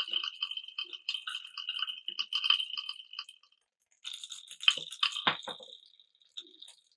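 Marbles rolling and clattering along a marble run track: a fast patter of small clicks over a steady high ringing, in two runs, with a few sharper knocks about five seconds in.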